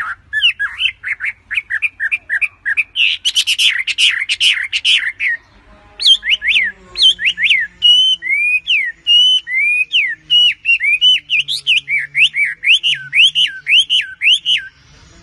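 A bird singing loudly: a fast chattering run of notes, then, after a short pause about five seconds in, a long series of clear whistled notes that swoop down and up, several a second.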